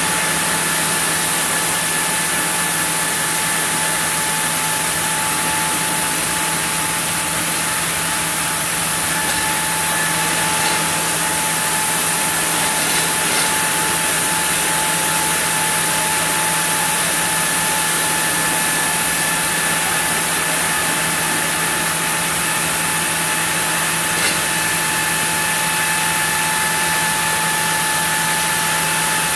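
Sawmill saw running steadily as it mills a block of zelkova hardwood, a continuous loud machine noise with a steady hum.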